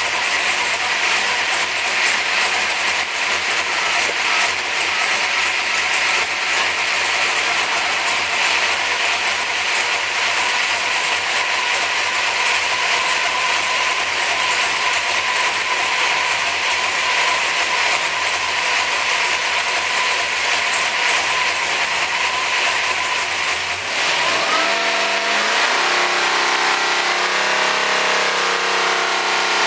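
A carbureted 440-cubic-inch small-block Chevrolet V8 race engine running loud and steady on an engine dyno. About 24 seconds in, its pitch rises and the sound turns to a clearer tone.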